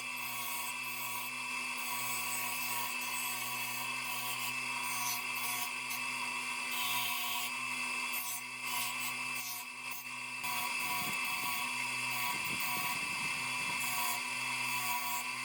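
A small electric power-tool motor running with a steady whine.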